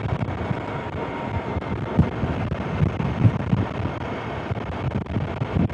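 Wind buffeting a helmet-mounted intercom microphone while riding a motorcycle, with a steady background of engine and road noise.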